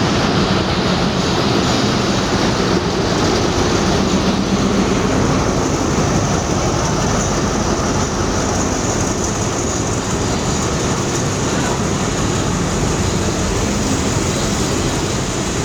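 Passenger train running along the track: a steady, loud rumble of wheels and carriages.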